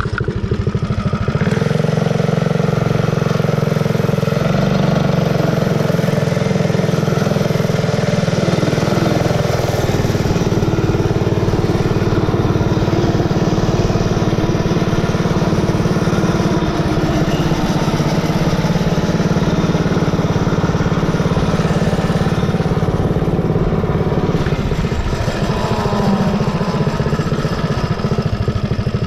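Predator 212cc single-cylinder four-stroke engine on a mini bike running at full throttle on a top-speed run. It picks up about a second and a half in, then holds a steady, high-revving note with small changes in pitch.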